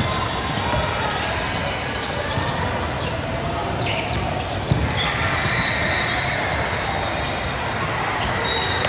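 Basketball game sounds in a gym: a basketball bouncing on the court, with a louder bounce about halfway through, over a steady din of players and spectators, and high sneaker squeaks in the second half.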